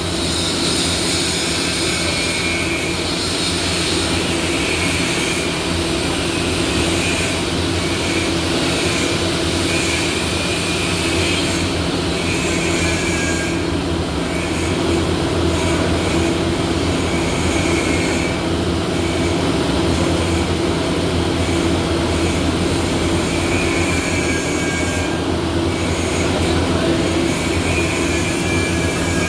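Steady workshop machinery noise from welding equipment: a continuous low hum with a high-pitched whine that comes and goes every second or two.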